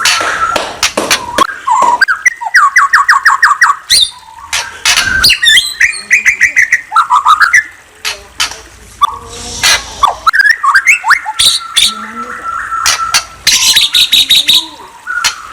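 A bird chirping and singing: rapid trilled runs of notes, short rising whistles and sharp clicking notes, in varied phrases with brief pauses between them.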